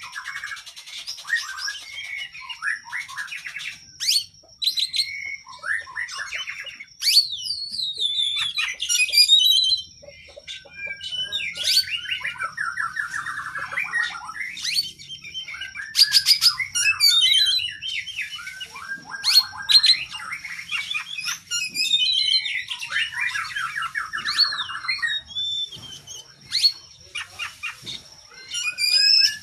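Oriental magpie-robin (kacer) singing a long, varied song of whistled phrases, sharp clicking notes and fast trills that come again and again.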